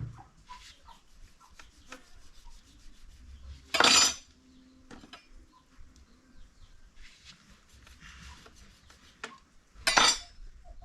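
Cooking pot and utensils being handled: light clinks and scraping, with two short, loud scrapes about six seconds apart.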